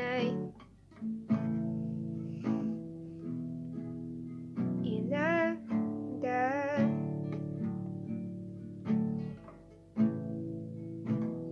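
Acoustic guitar playing chords, each stroke ringing and dying away, with a short wordless sung phrase with vibrato about halfway through.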